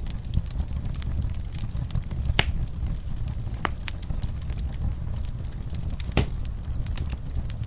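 Wood fire in a fireplace crackling steadily over a low rumble of flame, with a few sharper pops, the loudest about two and a half seconds in and again near six seconds.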